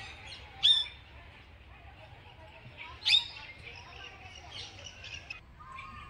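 Birds calling: two loud, sharp, high chirps that drop quickly in pitch, about two and a half seconds apart, over steady fainter twittering that stops abruptly near the end.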